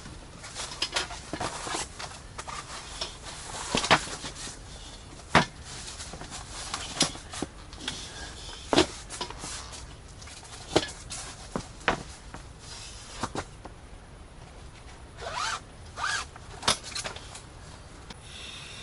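Irregular clicks, knocks and rustles of fishing gear being handled, with two short zip-like scrapes near the end.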